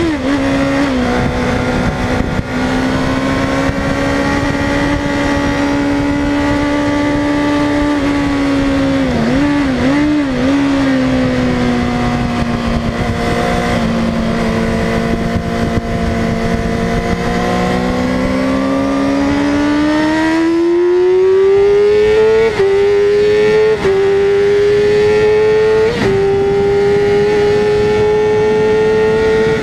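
Yamaha YZF-R6 inline-four engine heard on board at speed, with wind rush. It drops in pitch at an upshift right at the start, holds a fairly steady note through a long corner with a brief wavering around nine seconds in, then rises hard on acceleration with three quick upshifts near the end.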